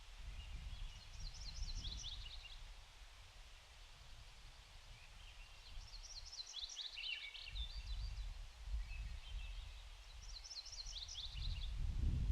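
A small songbird singing three short phrases of quick, falling notes, several seconds apart, over gusting low rumble from wind on the microphone.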